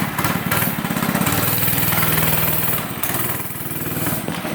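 Small 80cc four-stroke engine of a Monster Moto dirt bike running just after a first-pull start. It holds a steady speed, then eases slightly about three seconds in.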